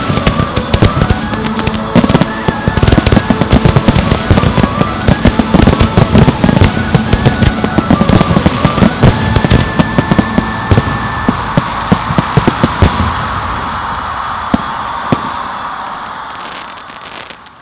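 Fireworks finale: a dense barrage of bangs and crackles with music playing under it. The bangs thin out after about thirteen seconds, and the music fades away near the end.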